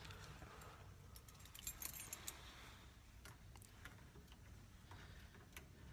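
Faint jangle of keys with a few light clicks, quiet overall.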